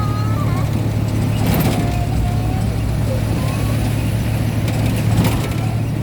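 Old Mitsubishi Minicab on the move, its engine giving a steady low drone. Two brief rushes of noise come about a second and a half in and again near the end.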